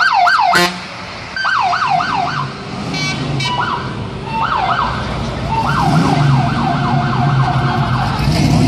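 Electronic siren sounded in short bursts, switching between wavering patterns, the last a fast yelp of about four or five cycles a second. A vehicle engine's low rumble grows under it toward the end.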